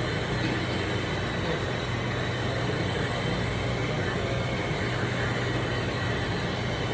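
Machinery running steadily: a constant low hum under an even rushing noise, with no change in level.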